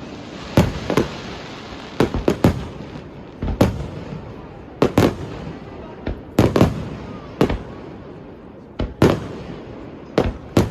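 Fireworks bursting: a series of sharp bangs roughly every second, some coming in quick pairs and triples.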